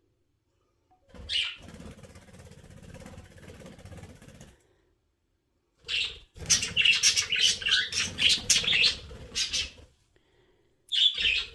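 Pet birds chirping in short bursts, with a dense run of loud, rapid chirps in the second half, and wing flapping as birds hover close by.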